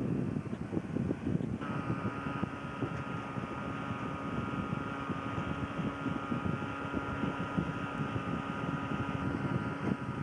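Boat motor running steadily, with a steady high whine that sets in about a second and a half in and holds.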